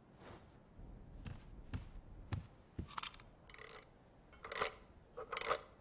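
Clockwork mechanism of a mechanical nightingale being wound and set going: a scattered series of soft clicks, with a few short, brighter rattles in the second half.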